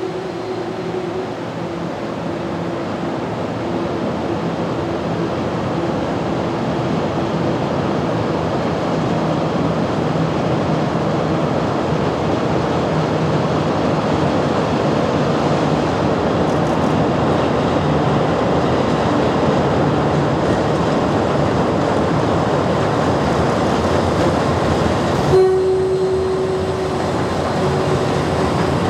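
Kurobe Gorge Railway trolley train running on the track, a steady rumble of wheels and cars that grows louder over the first several seconds. About 25 seconds in there is a sharp knock followed by a short steady tone.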